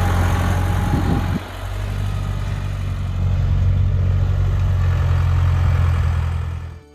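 Engine of a farm vehicle running steadily close by, with a brief dip about a second and a half in, cutting off abruptly near the end.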